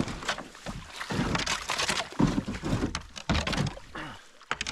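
Wooden canoe's hull scraping and grinding over river-bottom rocks in a series of irregular rasps: the canoe has run aground on a shallow gravel shoal.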